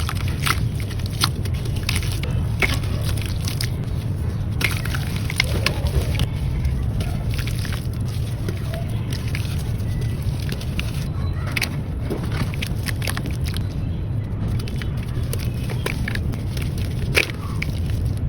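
Wet sand crunching and crackling, with scattered sharp clicks over a steady low rumble.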